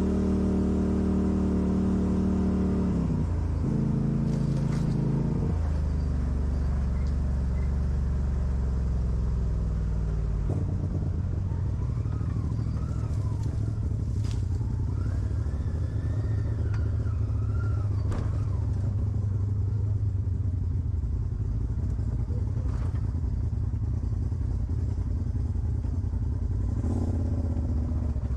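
Off-road vehicle engine running under load on a rocky trail climb, its pitch rising and dropping a few times in the first several seconds, then settling into a steady low drone. A couple of sharp knocks come partway through.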